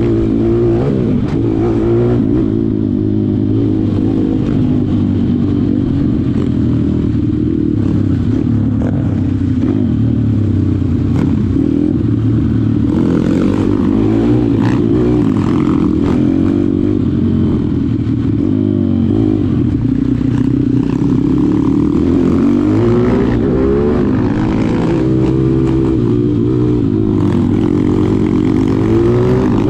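Malcor XM 160 pit bike's single-cylinder four-stroke engine running hard under throttle, its pitch rising and falling again and again as it is revved and eased off.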